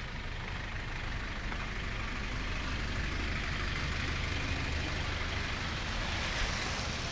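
A motor vehicle passing close by on a city street: a rushing tyre noise that swells to a peak near the end and then eases, over a steady low engine rumble.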